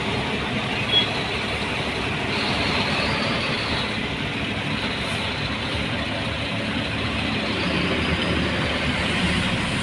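Truck engine and road noise, steady, with a brief sharp sound about a second in.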